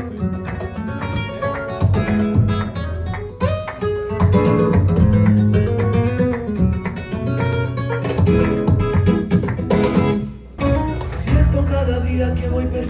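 Flamenco-style acoustic guitar music with a steady bass line, played back through a hi-fi system, with a brief dip in level near the end.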